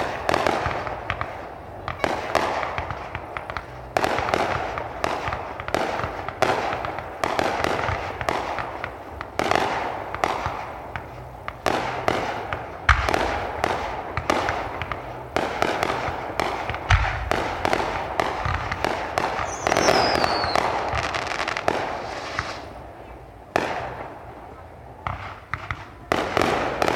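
Aerial fireworks going off in quick succession: repeated bangs of bursting shells with crackling between them. Two deeper booms come about halfway through, and a short falling whistle sounds about twenty seconds in.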